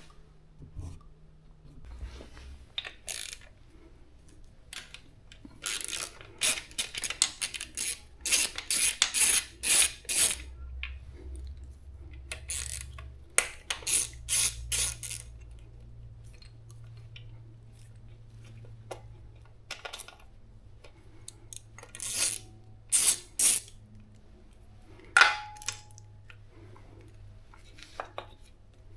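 Metal hand tools and small metal parts clinking, scraping and knocking in irregular bursts, with a faint steady low hum underneath.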